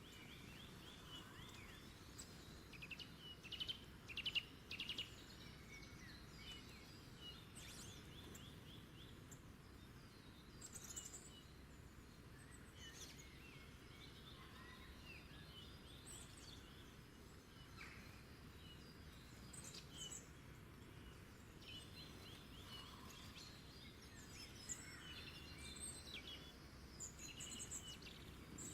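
Faint birdsong: several small birds chirping and trilling at intervals, over a steady low background hiss.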